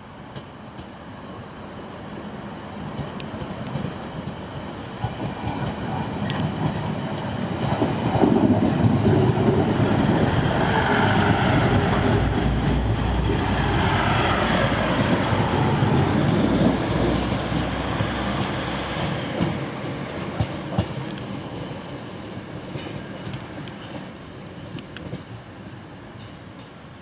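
A train passing on the line. It builds over several seconds, is loudest for about eight seconds as it goes by, then fades away.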